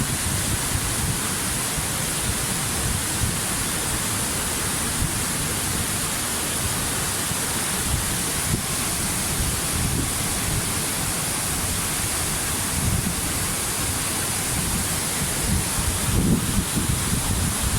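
Waterfall: a steady rush of falling water, with uneven low rumbling in the last couple of seconds.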